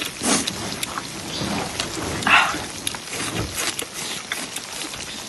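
Small Guizhou baojiang tofu cubes sizzling in hot oil on a griddle, a steady crackle with many small pops and a brief louder noise just past two seconds in.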